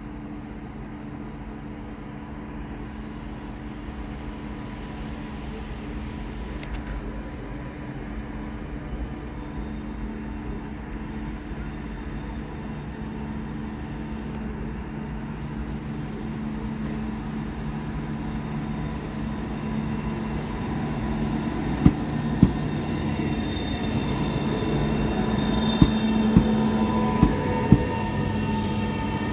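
Pendolino-type high-speed electric train pulling slowly into the platform: a steady electric hum that grows louder as it nears, with a few sharp wheel clacks over the track in the last several seconds and a faint high squeal near the end.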